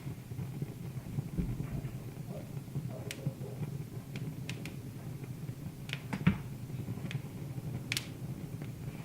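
Wood fire crackling: scattered sharp pops and snaps over a steady low hum, the loudest pop about two-thirds of the way through.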